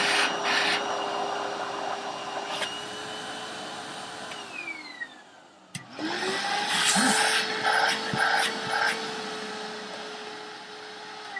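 Hoover WindTunnel upright vacuum cleaner running, then switched off about four seconds in, its motor winding down. After a click, a vacuum motor starts up again and runs steady with several loud rushes of air, then winds down again near the end.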